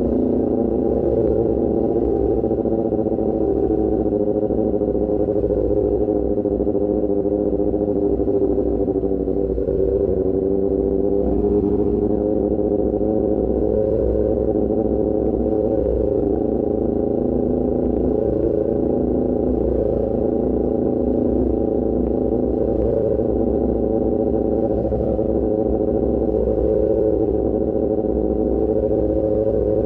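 Sport motorcycle engine with an Austin Racing GP1R aftermarket exhaust, running at steady cruising revs. The pitch sags slightly and recovers about ten seconds in, over a constant low rumble.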